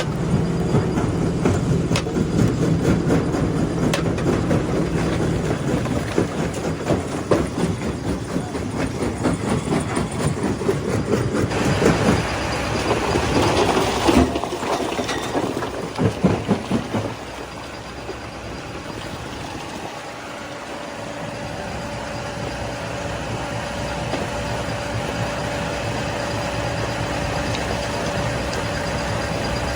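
Stone crusher breaking rock, with heavy clattering and knocking that grows loudest in the middle. After about seventeen seconds it settles into a steadier, quieter machine hum with a held tone.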